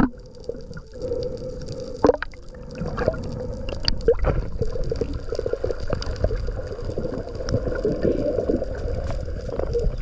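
Water gurgling and sloshing around the camera during a free dive, with a few sharp clicks or knocks.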